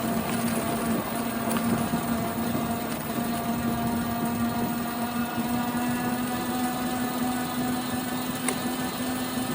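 Bicycle on the move making a steady whine that rises slightly in pitch near the end, over road and wind rush. It is the annoying bike noise from a part needing upkeep, which the rider later fixed.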